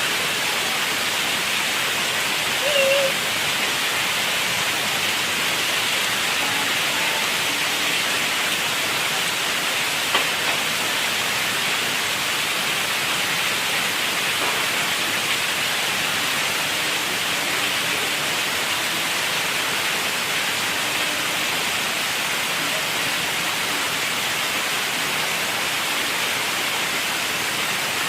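Steady rain falling. A brief voice sounds about three seconds in, and a single tick about ten seconds in.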